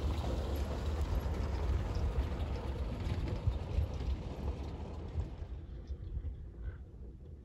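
Ford Model A's four-cylinder engine running with a low rumble as the car drives past and away; the sound fades over the last couple of seconds.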